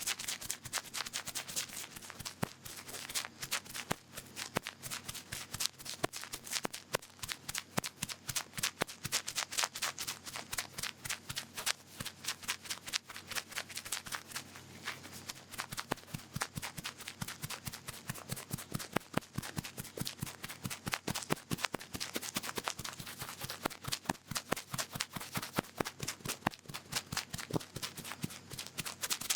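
Cotton swab (cotton bud) rubbing and scratching in an ear close to the microphone. It makes a dense, continuous run of crisp crackling scratches, several a second.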